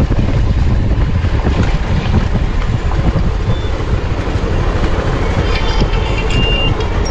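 Wind rushing over the action-camera microphone on a moving motorcycle, with the bike's engine running underneath.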